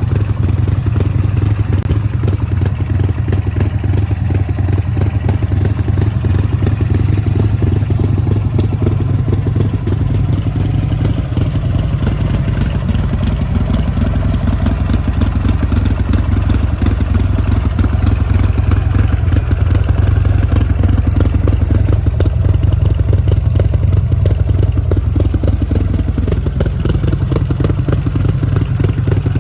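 Buell XB9R's air-cooled V-twin engine running steadily with a fast, lumpy throb. Its speed rises a little partway through and then holds.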